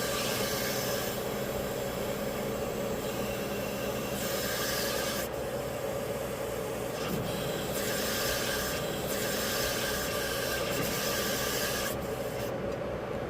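Steady machine noise with a constant hum and a rough, rasping hiss over it.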